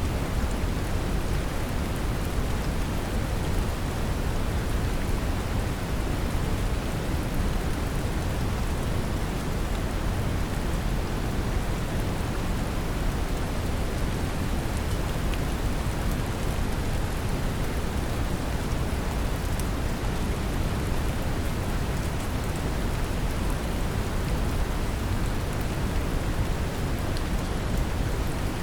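Brown noise mixed with steady rain: a deep, even rumble-like hiss with the patter of rain over it, unchanging throughout.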